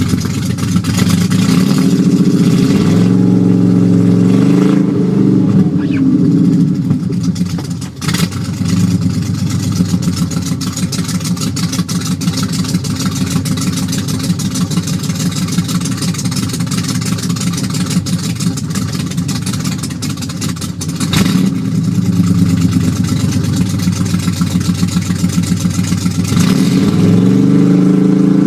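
Ford 302 small-block V8 running through side-exit exhaust while warming up from a cold start. It is held at a raised, steady speed for a long stretch, settles back, then picks up again near the end.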